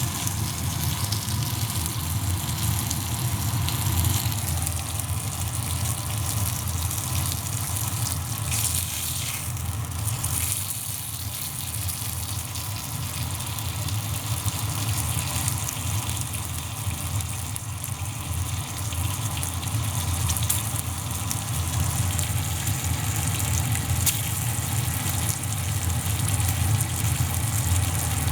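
Pork belly sizzling over a small wood fire: a steady hiss, with a steady low rumble underneath.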